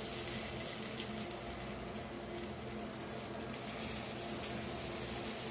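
Rava-coated fish roe sizzling in hot oil in a shallow frying pan: a steady frying hiss.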